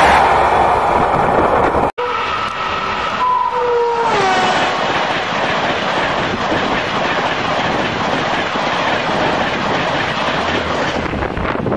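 Gatimaan Express passing at high speed: a dense, steady rush of wheels and air with the clatter of the coaches over the rails. Just after a brief break in the sound about two seconds in, a two-tone train horn sounds for about two seconds and drops in pitch near its end as it passes.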